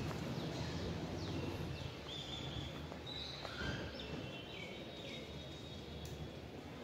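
Birds chirping and calling, a string of short falling chirps and a few brief whistled notes, over the low steady noise of a town street.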